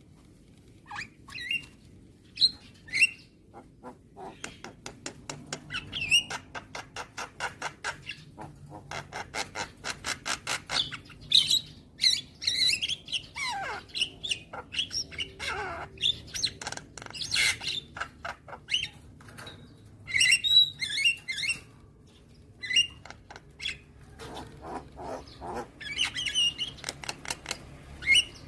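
Javan myna (jalak kebo) calling: long runs of rapid clicking, rattling notes broken by harsh squawks and whistles, a few of them falling in pitch, around the middle.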